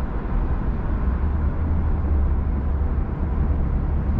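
Steady road and tyre noise with a deep low rumble inside the cabin of a Genesis G80 sedan cruising at highway speed.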